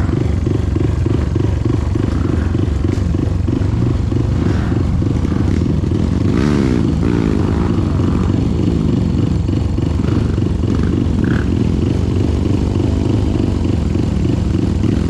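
Trail motorcycle engine running loud, its revs rising and falling about six to eight seconds in, as the rear wheel spins in soft ground and digs a hole instead of getting traction.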